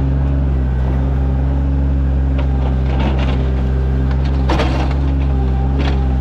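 Sany mini excavator's diesel engine running steadily under digging work, with three brief knocks about halfway through, a second and a half apart, from the machine working.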